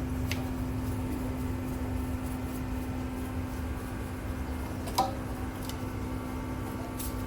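Steady machine hum with a constant low drone, with a few light clicks and a small knock about five seconds in.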